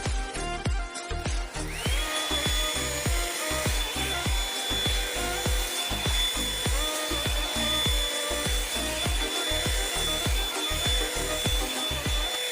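Revlon One Step hair dryer brush switched on about two seconds in. Its motor spins up to a steady high whine with a rush of air, over background music with a steady beat.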